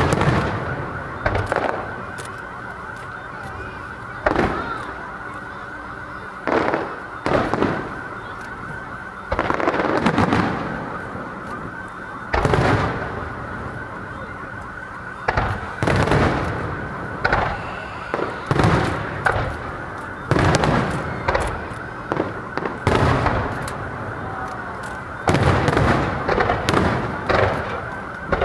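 Aerial fireworks bursting in a continuous show: loud booms and bangs, each dying away over about a second, follow one another at irregular intervals of one to three seconds, with clusters of quick bangs near the end. A steady noise runs underneath between the bursts.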